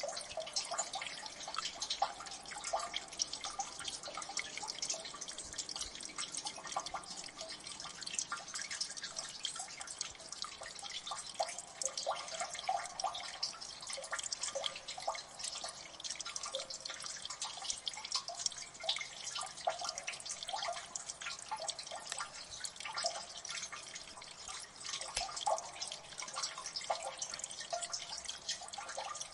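Water dripping in a gully: many drops falling at once, a dense, irregular patter of small plinks and ticks that never stops.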